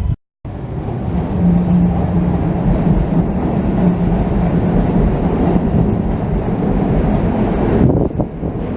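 Keisei Kanamachi Line train passing close by, a loud steady rumble with a low hum through most of it, and wind buffeting the microphone.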